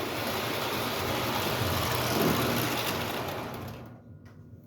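Ives standard gauge 0-4-0 toy train engine and coaches running on the track with a steady mechanical whir and rumble. It fades away about four seconds in.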